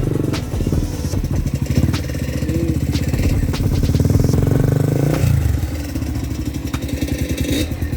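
Single-cylinder trail motorcycle engine pulling under throttle for about five seconds, then easing off to a lower, uneven run. A few sharp clicks sound over it.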